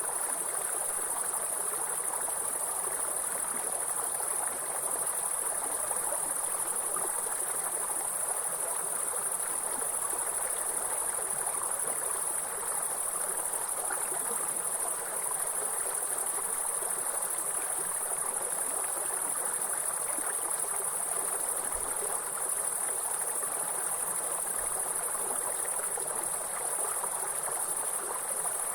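A steady high-pitched insect chorus shrilling without a break over the continuous rush of flowing stream water.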